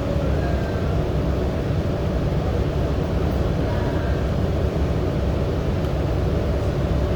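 Subway train running, heard from inside the car: a steady low rumble of wheels on track, with faint whining tones coming and going above it.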